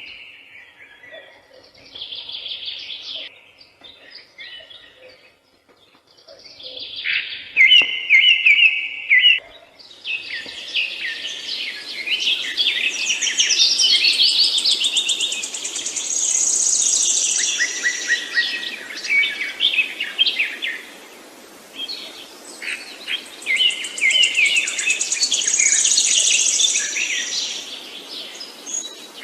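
Several songbirds singing, with short repeated phrases at first and a fuller chorus of overlapping songs from about ten seconds in. A high trill comes twice, over a faint steady background hiss.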